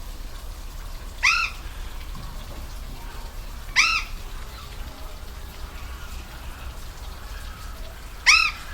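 Waterfall rushing steadily, with an animal's call cutting in three times: each a short, loud note that rises and falls in pitch, about a second in, near the middle and near the end.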